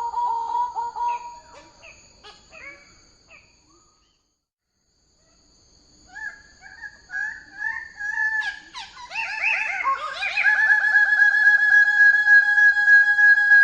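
Bird-of-paradise calling: a run of harsh, buzzy calls that fades out, a break of about two seconds, then louder calls building to a long, steady rasping call held through the last few seconds.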